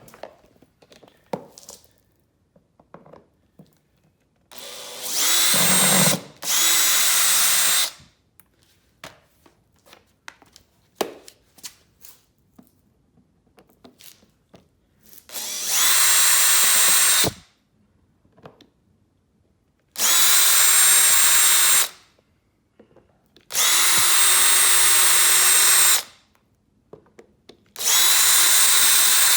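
Electric drill running in six short bursts of one to two and a half seconds, each a steady whine, with small clicks and knocks of handling between them.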